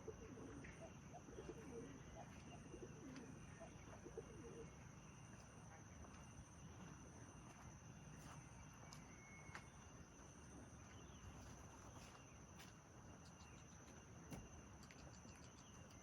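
Near silence: quiet outdoor ambience with faint dove-like cooing in the first few seconds and a faint steady high tone.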